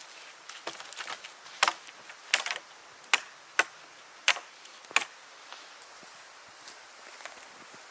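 A series of sharp clicks or knocks, about six of them over some three seconds, followed by a few fainter ticks.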